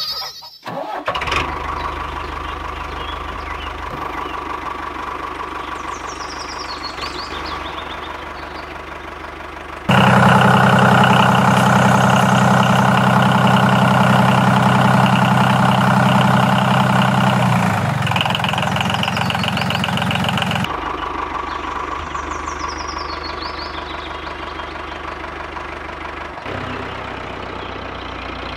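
Tractor engine running steadily. It becomes much louder about a third of the way in and drops back about two-thirds of the way through.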